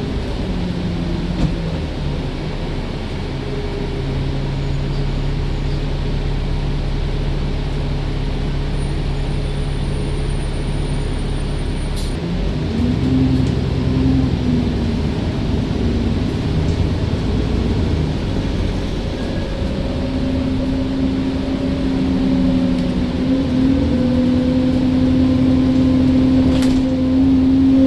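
Diesel engine of an Alexander Dennis Enviro bus running, its pitch shifting about halfway through and again later, rising a little and getting louder toward the end.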